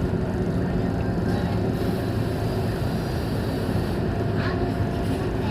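Scania K230UB city bus's diesel engine running as the bus drives, a steady low drone mixed with road noise.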